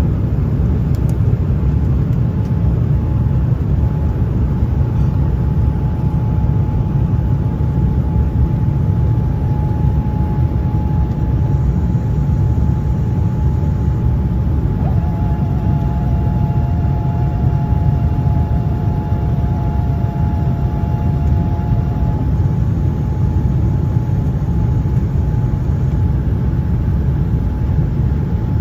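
Airliner cabin noise in flight: a loud, steady low rumble of engines and rushing air, with a faint steady hum over it and a second hum joining for several seconds midway.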